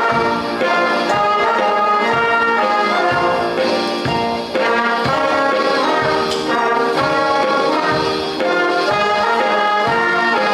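Student jazz band playing a blues, brass to the fore, over a steady beat in the bass.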